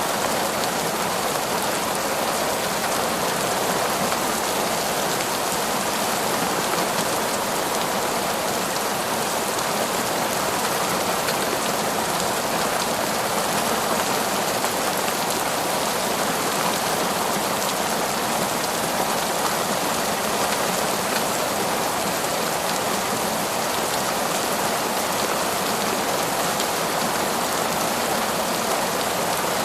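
Heavy, steady downpour of rain, a dense even hiss of drops falling without let-up.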